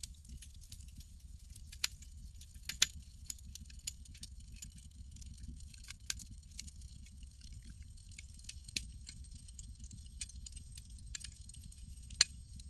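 Campfire burning: a steady low rumble of flame with irregular crackles and pops, a few sharp louder snaps about two and three seconds in and again near the end.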